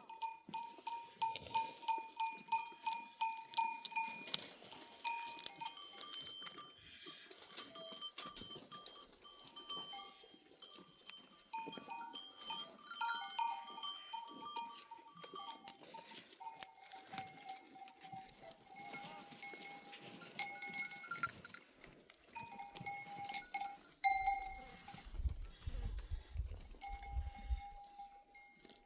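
Bells on a herd of goats clanking in an uneven rhythm as the animals move, several bells at different pitches ringing over one another. A low rumble comes in about three-quarters of the way through.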